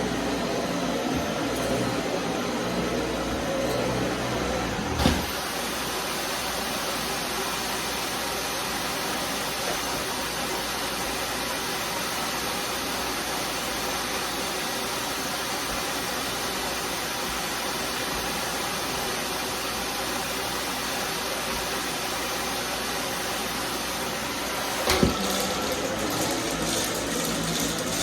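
Vacuum cleaner running steadily, with a sharp knock about five seconds in and another near the end.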